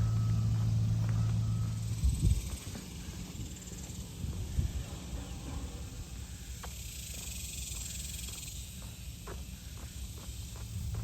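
Outdoor ambience on a trail: a steady low rumble cuts off about two seconds in. Faint insect buzzing follows, with a scatter of light clicks in the second half.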